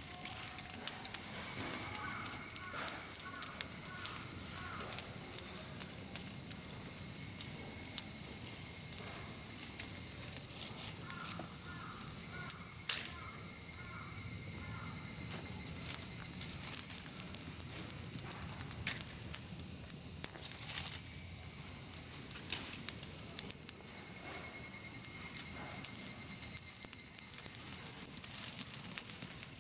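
Steady high-pitched chorus of night insects, with a wood campfire crackling in scattered sharp pops and clicks.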